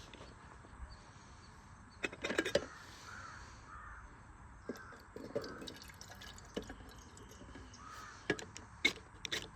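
Crows cawing repeatedly in the background, with sharp knocks and clatters, the loudest cluster about two seconds in and a few more near the end.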